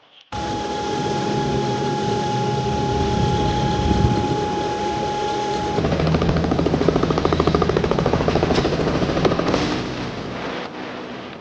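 Helicopter running loud and steady: a high turbine whine at first, then, from about halfway through, a fast, even chopping pulse from the rotor.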